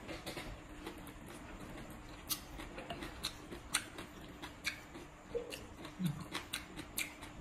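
Close-up chewing of shredded green papaya salad: irregular crisp crunches, a few a second.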